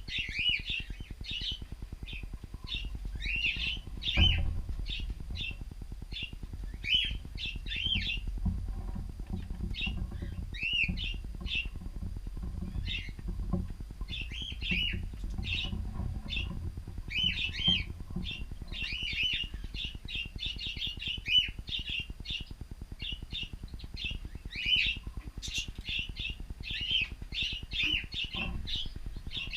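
Cockatiels chirping: a busy string of short whistled chirps, many rising and falling in pitch, over a low rumble. There is one knock about four seconds in.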